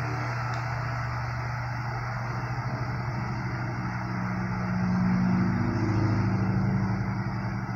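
Four-blade 16-inch Toshiba oscillating table fan running on medium speed: a steady motor hum under a rush of air, swelling a little louder around the middle.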